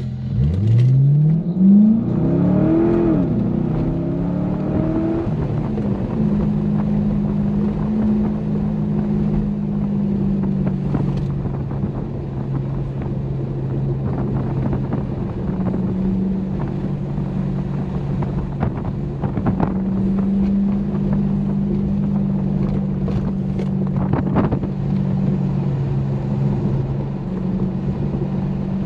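Corvette C6 Grand Sport's 6.2-litre LS3 V8 and exhaust heard from the trunk. In the first few seconds it revs up hard, drops at a shift and climbs again, then settles into steady cruising with road and wind noise. Near the end come a few brief knocks.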